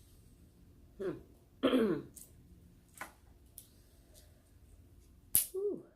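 A person clearing their throat and coughing: two short vocal sounds dropping in pitch about a second in, the second the louder. Near the end there is a sharp crack, followed by another brief throaty sound.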